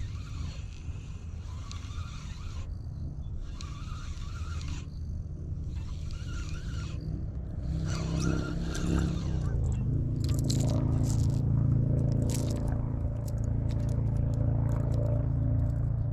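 Spinning reel cranked in short bursts of about a second with brief pauses, as a lipless rattle bait is yo-yoed. From about eight seconds in, a motor vehicle's engine rises and then runs steadily, with scattered clicks over it.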